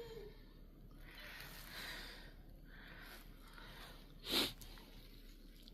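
A person breathing and sniffing close to the microphone, ending in one short, sharp sniff about four seconds in that is the loudest sound.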